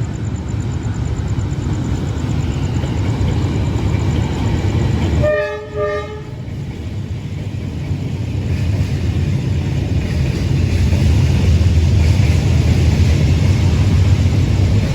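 D19E diesel-electric locomotive running in with its train, a steady low rumble that grows louder over the last several seconds as it draws near. About five seconds in, the locomotive's horn gives a short toot.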